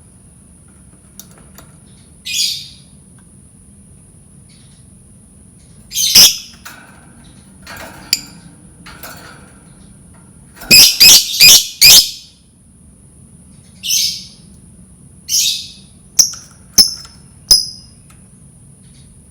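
Lovebird giving loud, shrill chirping calls in separate bursts, with a quick run of four calls about eleven seconds in and short sharp chirps near the end.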